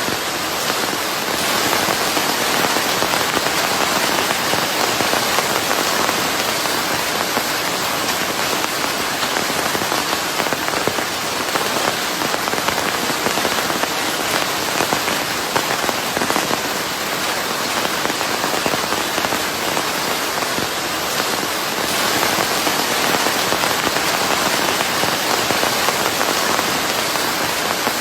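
Steady heavy rain falling on a surface, a dense even hiss with fine pattering drops, mixed with white noise.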